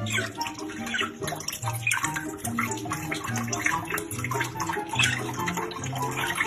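Running water splashing, with music playing underneath.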